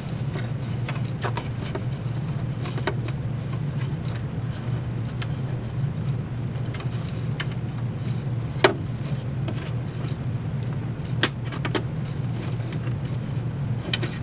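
Steady low machine hum with scattered light clicks and taps from the wicker picnic basket's lid and lacing being handled and checked, two sharper clicks about nine and eleven seconds in.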